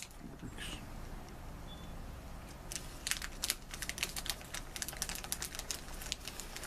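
Snack being handled and eaten: rapid small crackles and clicks, sparse at first and dense from about three seconds in.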